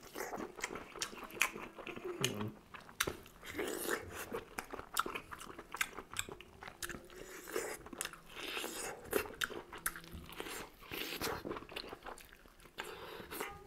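A person chewing and biting cooked squid and vegetables, with many irregular small crunches and wet mouth smacks.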